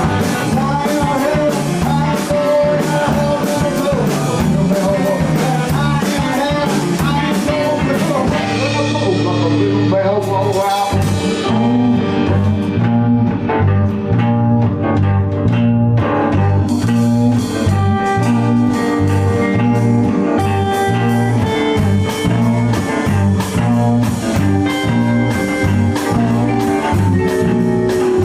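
Blues-rock band playing live: electric guitar, bass and drum kit. About ten seconds in the drums drop out, leaving guitar and a steady bass line, and the full kit comes back in about six seconds later.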